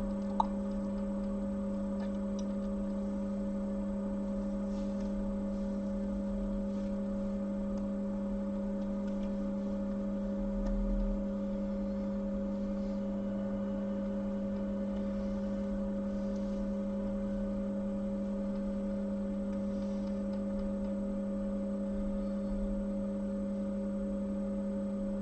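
Steady electrical hum with a low drone and a higher steady tone above it, and one faint click about half a second in.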